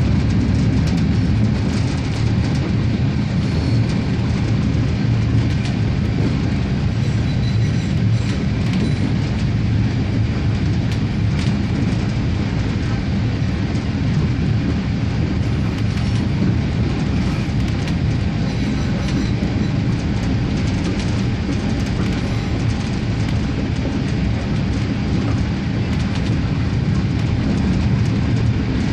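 Regio-Sprinter diesel railcar running steadily along the line: a continuous low rumble of engine and rolling wheels, with a few faint clicks of the wheels over the track.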